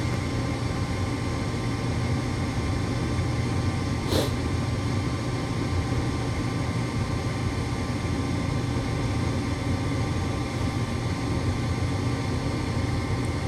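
Gas furnace's draft inducer motor running with a steady hum while the furnace waits to retry ignition, with one short click about four seconds in.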